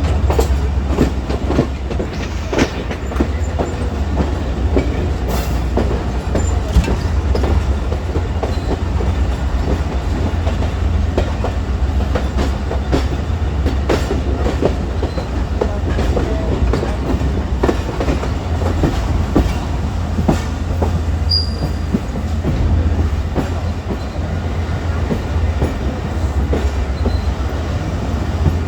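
Passenger train running along the track, wheels clattering irregularly over the rails above a steady heavy low rumble.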